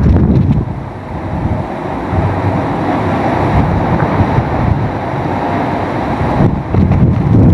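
Hurricane winds, with heavy gusts buffeting the microphone at the start and again near the end, and a steadier rushing wind in between.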